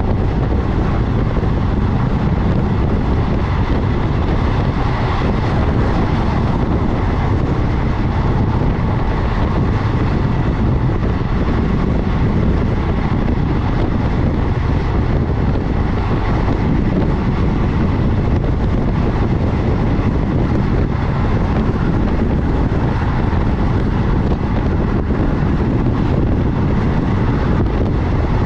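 Passenger train running steadily at speed: an even rumble of wheels on the rails, with wind buffeting the microphone.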